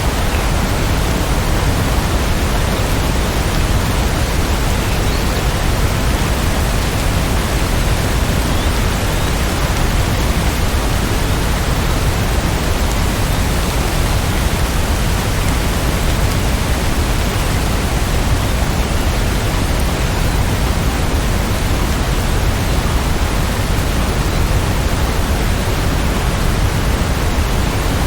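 Steady rainfall, an even hiss that does not change, with no separate drops or thunder standing out.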